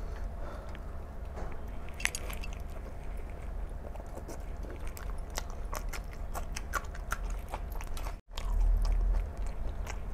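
Close-up chewing and wet mouth sounds of a man eating mutton curry and rice with his hands: many small sticky clicks and smacks over a steady low hum. The sound drops out for an instant a little after eight seconds in.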